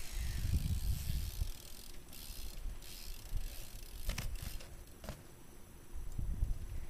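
BMX bike coasting on asphalt, its rear hub's freewheel ratchet ticking, over a low rumble. Two sharp clicks come about four and five seconds in.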